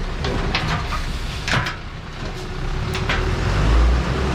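Diesel engine of a THACO dump truck running with a low rumble that swells louder near the end, with several sharp clicks and knocks over it.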